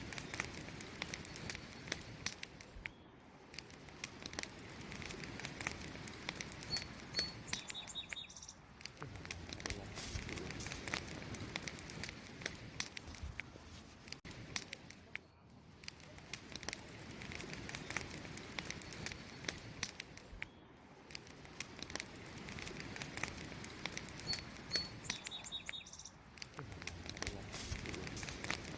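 Wood fire crackling and popping with dense irregular snaps, with a few short bird chirps heard twice.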